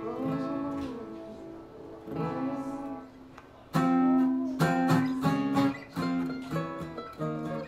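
Acoustic guitar playing chords, with a string of separate strummed chords in the second half.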